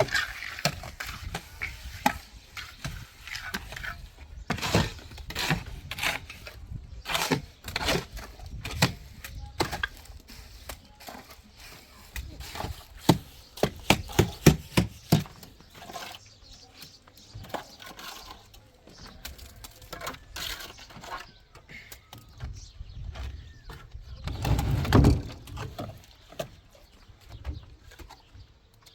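Irregular knocks, clicks and scrapes of manual building work with cement, with a louder, longer rumbling thud near the end.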